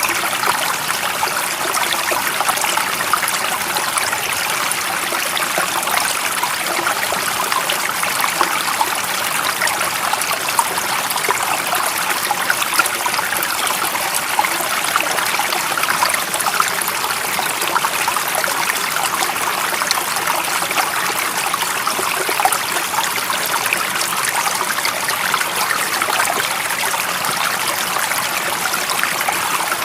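A stream of water running steadily, a constant rushing hiss with small splashes and trickles through it.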